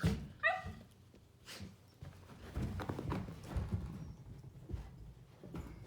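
Two dogs running laps around a table, their paws thudding and scrabbling on carpet in an irregular patter. There is a short high squeal about half a second in.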